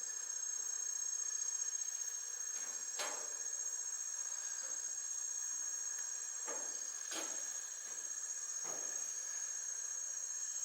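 Steady, high-pitched insect chorus trilling without a break, with a few soft knocks over it.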